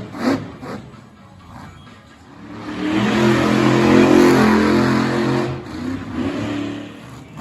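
Monster truck engine revving hard, rising about two and a half seconds in and held at high revs for several seconds before easing off near the end. A few short sharp sounds come in the first second.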